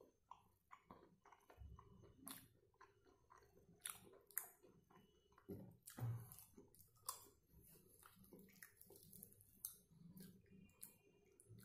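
Faint, close chewing of crispy fried chicken, with irregular small crunches and crackles from the breaded coating.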